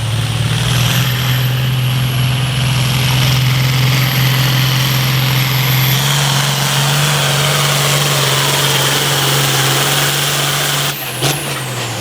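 International 1466 tractor's turbocharged six-cylinder diesel running hard under load while pulling the sled, with a high whine above the engine note. The engine note steps up in pitch about halfway through, and near the end the engine is suddenly shut down or throttled back with a sharp click as the run ends, the whine falling away.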